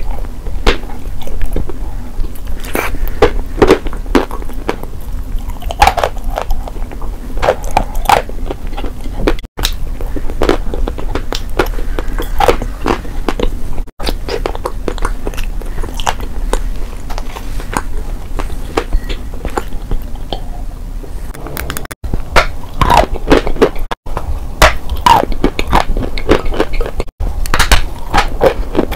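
Close-miked chewing and biting of edible clay: wet, smacking mouthfuls of clay paste, and near the end crunchy bites into a dry clay chunk. It runs as several short spliced clips, each cutting off abruptly.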